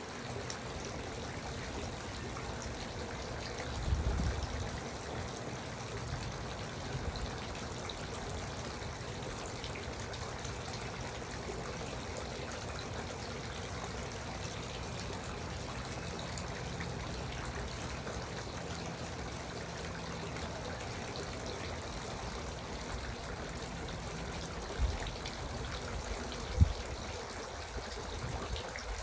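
Garden water fountain trickling and splashing steadily. A few brief low thumps break in about four seconds in and twice near the end.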